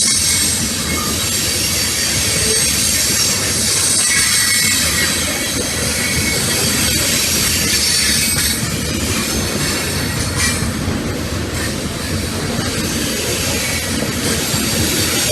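A CSX freight train's cars rolling past on the rails: a steady, loud din of wheels on track with thin, high wheel squeals coming and going, and a sharp clank about ten seconds in.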